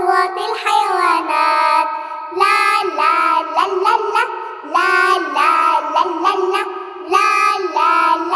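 A child's voice singing a children's song in held, melodic phrases over backing music.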